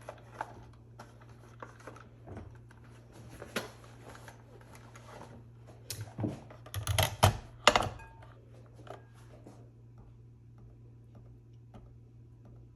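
Scattered clicks and light knocks of things being handled on a kitchen counter, with a burst of louder clattering about six to eight seconds in, over a steady low hum.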